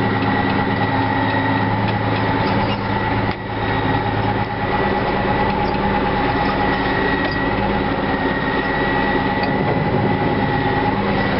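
Case 2290 tractor's Case 504 six-cylinder diesel running steadily, still not fully warm after a cold start, with a steady high whine over the engine note. The sound dips briefly about three seconds in.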